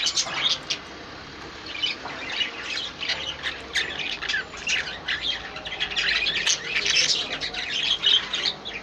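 A flock of small pet cage birds chirping and chattering, many short, high calls overlapping. There is a brief lull about a second in, then the calling grows busier.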